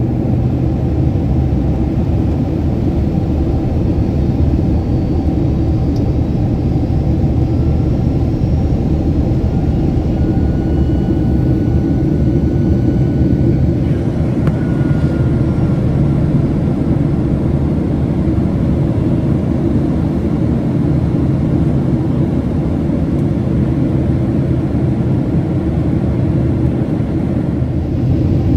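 Steady low cabin rumble of a Boeing 767-300 with General Electric CF6 engines, a constant drone of engines and airflow. Faint whistling tones drift slightly in pitch over it for a few seconds.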